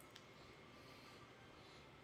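Near silence: faint room tone and hiss, with one small click just after the start.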